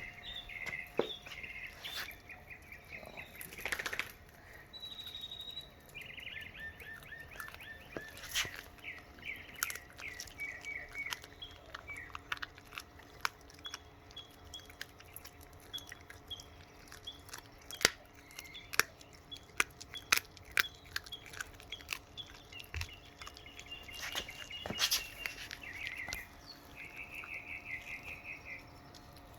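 A dog chewing and crunching on a frozen raw tilapia, with irregular sharp crunches. Small birds chirp and trill in the background.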